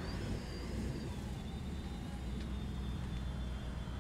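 Race-prepared first-generation Ford Mustang's engine rumbling at low speed as it drives past. A thin, high-pitched whine sits above the rumble and slowly falls in pitch.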